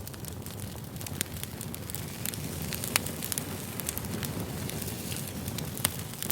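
Campfire burning: a steady low rush of flames with frequent sharp crackles and pops of the burning wood, the loudest pops about three seconds in and near the end.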